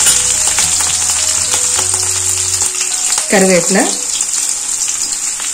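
Green chillies, ginger, mustard and cumin seeds sizzling in hot sesame oil in a steel kadai, a steady hiss with many small crackles as the tempering fries. A brief voice sound comes a little past halfway.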